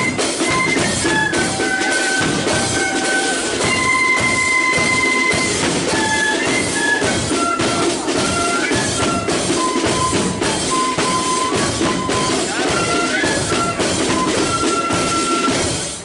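Marching flute band playing a tune: flutes carrying the melody in held and stepping notes over rapid snare drums and bass drum. The music stops abruptly at the very end.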